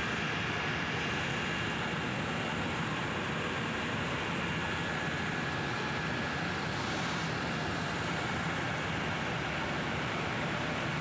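Steady noise of a helicopter's engine and rotors, heard from inside the cabin.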